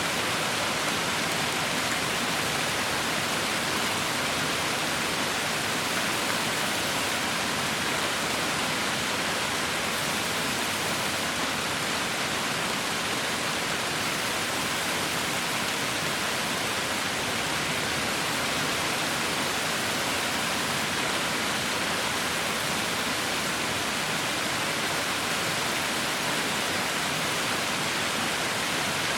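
Heavy rain falling steadily, an even hiss with no distinct drops or breaks.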